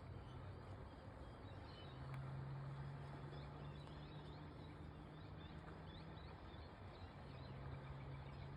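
Faint outdoor ambience: small birds chirping in short high calls, with a steady low hum that starts about two seconds in, drops out briefly and comes back.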